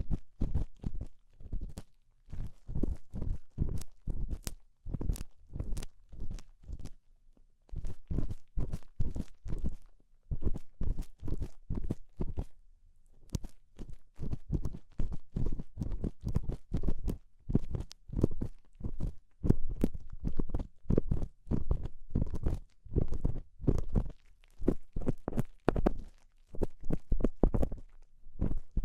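ASMR ear-cleaning sounds on an ear-shaped binaural microphone: quick runs of scratching and rubbing strokes, several a second, with two short pauses.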